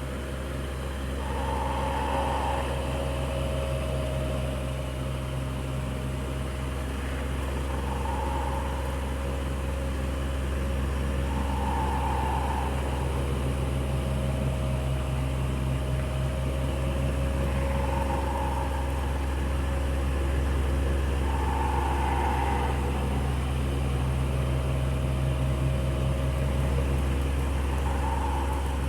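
Electric fan running steadily, a low motor hum under the rush of air, with a brighter swell in the sound every four to six seconds.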